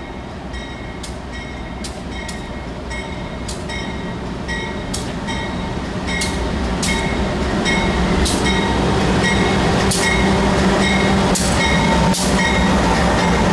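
Freight train approaching, its low diesel rumble growing steadily louder. Over it, regular ringing strikes come about three every two seconds.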